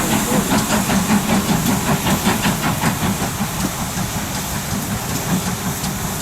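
Steam locomotive hissing steam, with a quick regular pulsing in the first half that eases into a steadier hiss.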